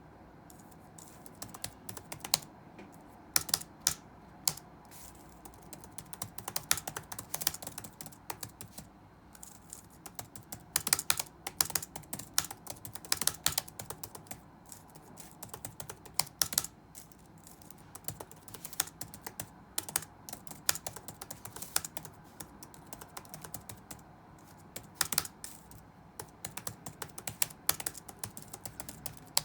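Touch-typing on a computer keyboard: runs of quick keystrokes with short pauses between them, a few strokes louder than the rest.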